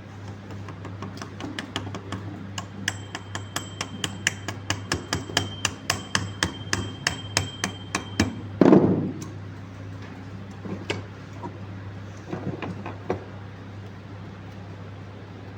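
Rapid light hammer taps on metal, about four a second for several seconds with a faint ringing, as the impeller is knocked onto the Tullu pump motor's shaft. The run ends in one heavier knock, then a few scattered taps.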